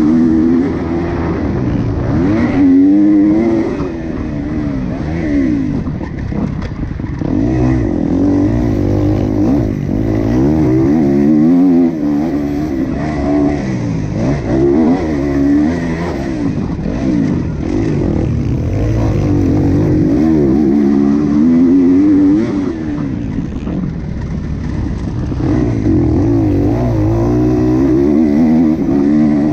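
Motocross bike engine racing on a track, revving up and falling back over and over, its pitch climbing and dropping every second or two.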